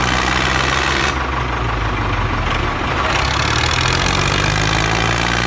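An engine running steadily at idle, a low, even drone.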